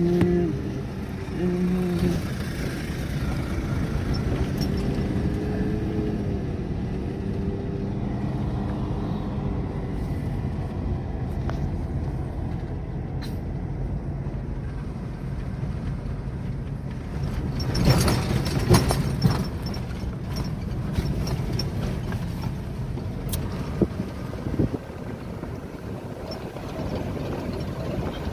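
Large mining haul truck's diesel engine running steadily, its pitch shifting up and down during the first ten seconds. A loud noisy burst about two-thirds of the way through stands out.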